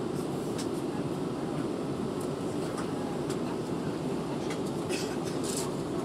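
Steady cabin roar of an Airbus A319-131 in flight, its IAE V2500 engines and the rushing air heard from a window seat. A few faint clicks and rattles come about five seconds in.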